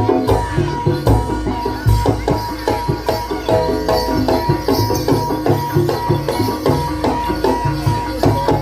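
Javanese gamelan accompaniment for ebeg dance: hand drums and tuned percussion keep up a fast, steady rhythm, with sustained ringing tones under the strikes.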